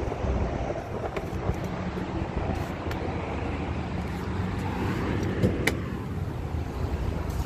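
A 2006 Fiat Punto's engine running steadily at idle as a low hum, with a sharp click a little over five seconds in.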